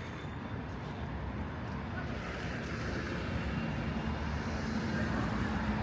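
Road traffic on a city street: a steady rumble of passing vehicles that grows slowly louder.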